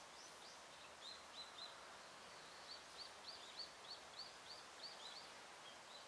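A small bird chirping faintly: a few short high chirps, then a quick run of repeated chirps at about three a second, over a faint steady outdoor hiss.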